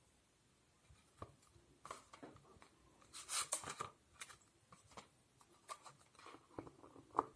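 Quiet rustling and light taps of tarot cards being handled on a table, with a longer rustle about three seconds in and a sharper tap near the end.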